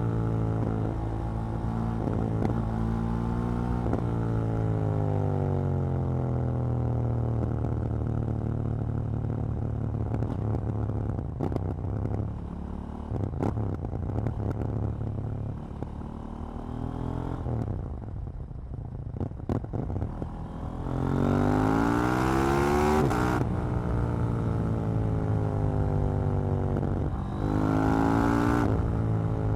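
KTM Duke 790 parallel-twin engine and exhaust: revs falling on the overrun with quick blips between, then a stretch of closed-throttle coasting with scattered sharp pops from the exhaust. About two-thirds of the way in the engine pulls hard with rising revs and an upshift, and it pulls again near the end.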